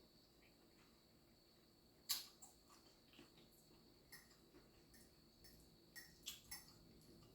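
Faint wet mouth clicks and smacks from close-up chewing, with one sharper click about two seconds in and a few more near six seconds.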